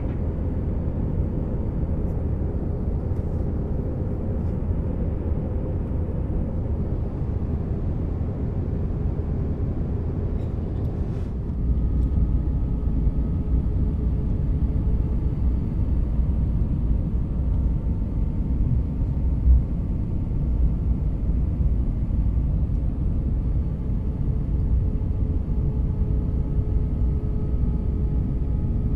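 Airliner cabin noise on landing: steady engine and airflow rumble, then about a third of the way in the wheels touch down and a louder, deeper rumble of the landing roll takes over, with faint steady whine tones above it and a single knock a few seconds later.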